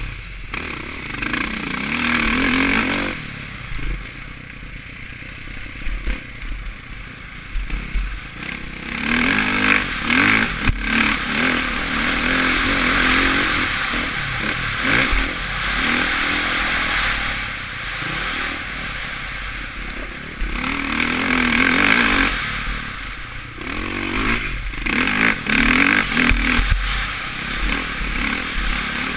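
Suzuki RM-Z450's four-stroke single-cylinder engine heard from a helmet-mounted camera while riding a motocross track, revving hard and easing off again and again. There is a quieter off-throttle stretch a few seconds in.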